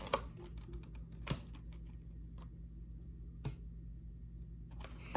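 Scattered light clicks and taps from food packaging or items being handled, with two stronger taps, one about a second in and one about three and a half seconds in.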